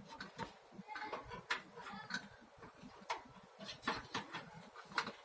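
Irregular sharp clicks and taps, about half a dozen, as the plastic and metal parts of a gas water heater's water valve are handled and fitted back together over a new rubber diaphragm.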